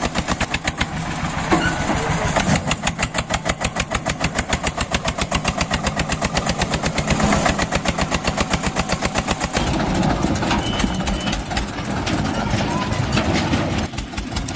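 Mini Eicher tractor engine running with a rapid, even chug of about ten beats a second, growing less even after about ten seconds.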